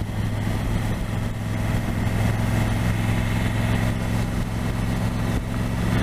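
Motorcycle engine running at a steady pace, a constant low drone under an even rush of wind and road noise.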